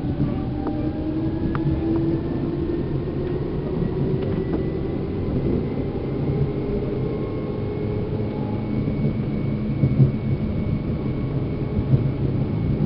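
Seibu New 2000 series electric train heard from inside its motor car while running: a low rumble of wheels on track, with the traction motors' whine rising slowly in pitch as the train gathers speed and levelling off near the end. A few sharp clicks from the track come through.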